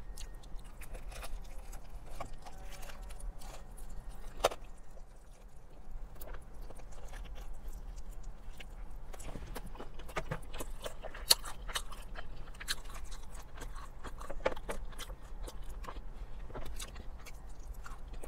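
Mouth-close chewing and biting of crispy fried chicken: irregular wet crunches and mouth clicks, with a couple of sharper clicks, over a steady low hum.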